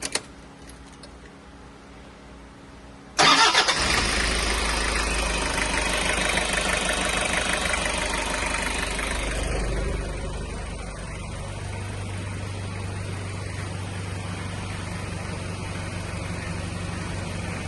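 Toyota 1KZ-TE 3.0-litre four-cylinder turbodiesel starting about three seconds in, running loud at first and then settling about ten seconds in to a steadier idle. It runs without knocking on new Denso injectors, the fix for its knock and white smoke.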